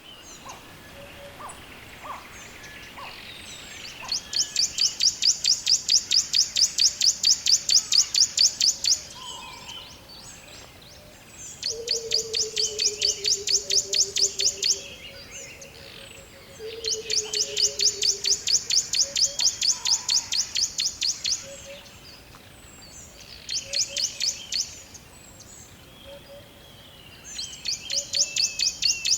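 Forest birdsong: a loud, high-pitched chirp repeated rapidly and evenly, several times a second, in bouts of a few seconds separated by short pauses. Two lower whistled notes fall slowly in pitch, one about twelve seconds in and one about seventeen seconds in.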